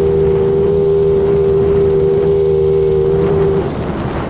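Small off-road vehicle engine running at a steady high pitch under throttle, then easing off near the end.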